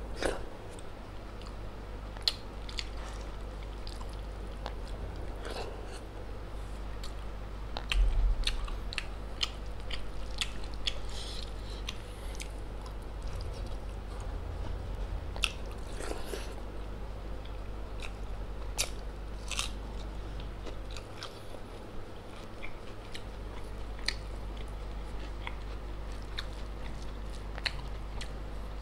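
Close-miked chewing and mouth sounds of a person eating rice, dal and fried pork by hand, with many short wet clicks and smacks and fingers squishing rice on a plate, over a steady low hum. A dull bump about eight seconds in.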